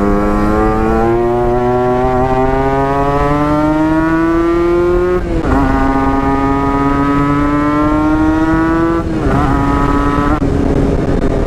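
Yamaha RX-King's two-stroke single-cylinder motorcycle engine accelerating hard through the gears, its pitch climbing steadily, dropping sharply at an upshift about five seconds in, then climbing again. Near the end the pitch dips twice as the throttle eases.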